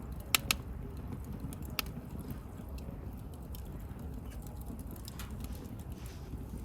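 Wood fire crackling, with a steady low rumble underneath. Sharp pops stand out: two close together about half a second in, another just before two seconds, and a few fainter ones later.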